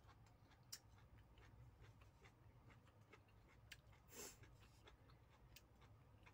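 Near silence with faint, scattered wet mouth clicks from a person chewing soft blanched cauliflower with her mouth closed. One short breathy rush of noise comes about four seconds in.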